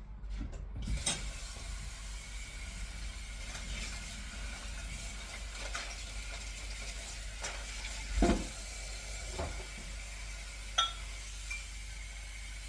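Food sizzling in a pan, a steady hiss that starts about a second in, with scattered knocks of a utensil on the cookware. There is a louder thump about eight seconds in and a ringing metal clink near the end.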